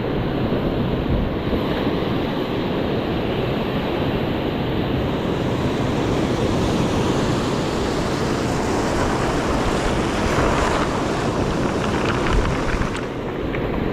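Ocean surf breaking and washing up the beach, with wind buffeting the microphone. The wash swells, getting brighter and hissier, from about five seconds in and eases off near the end.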